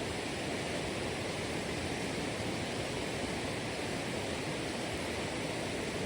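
Steady rushing water, an even hiss that neither surges nor breaks.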